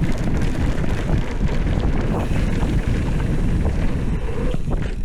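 Wind rushing over the microphone of a mountain biker's camera at speed, a steady loud rush heaviest in the low end, with trail and tyre rumble under it.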